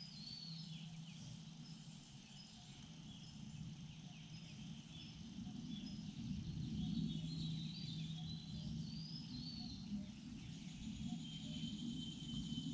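Woodland ambience: small birds chirping and whistling intermittently in the background, with a thin high held note near the end, over a steady low hum and rustling noise.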